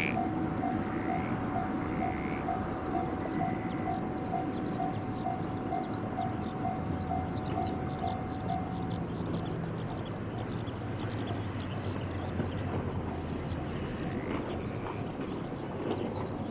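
A distant Ohmi Railway 800-series electric train running toward the listener, heard as a steady rumble. Over it a level-crossing bell dings about twice a second and stops about nine seconds in, and there is high chirping.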